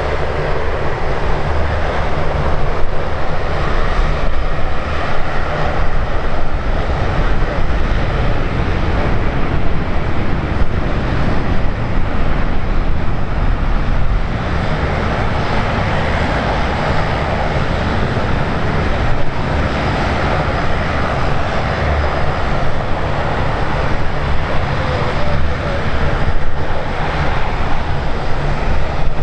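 Airliner engine noise: a loud, steady, dense rumble and rush that holds for the whole stretch, without clear starts or stops.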